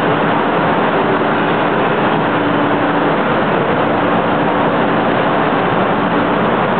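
A train running through a covered station: a loud, steady rumble with a constant hum.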